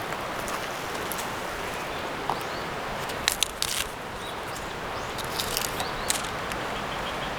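Steady rush of a river flowing, with a few sharp clicks about three and six seconds in.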